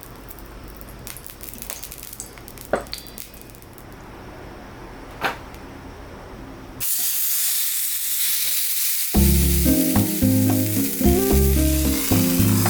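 Faint ambience broken by two sharp clicks, then a sudden steady sizzle starting about seven seconds in, like food frying in a pan. Background music joins about two seconds later.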